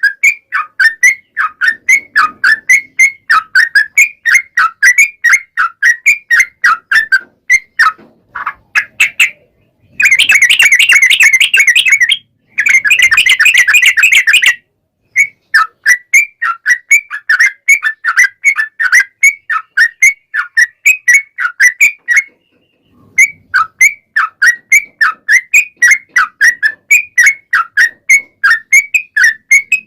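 A yellow-vented bulbul (trucukan) sings a long run of quick, repeated whistled notes, several a second. About ten seconds in it breaks into two bursts of fast, continuous chattering, the 'ropel' rattle, before going back to the separate notes.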